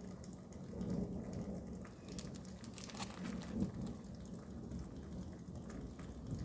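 Steady rain heard from indoors, with a faint low hum and a few light clicks and rustles around the middle.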